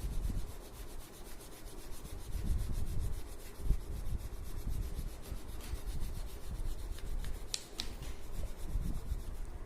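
Crayon rubbed back and forth on a paper sheet, shading in a coloured background with irregular scrubbing strokes. Two short clicks come a little before the end.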